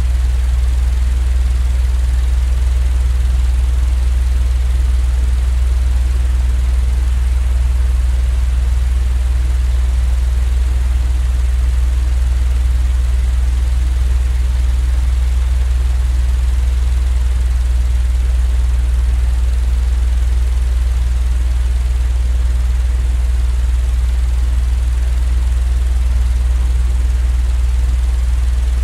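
Electric fan running with a steady low hum and a faint even hiss, unchanging throughout.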